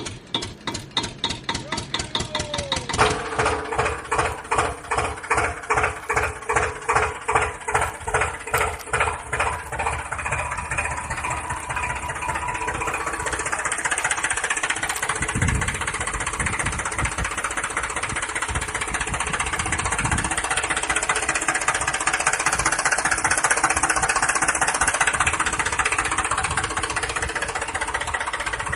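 An engine chugging in even beats about twice a second, quickening over the first ten seconds or so into a steady run, with a steady whine alongside.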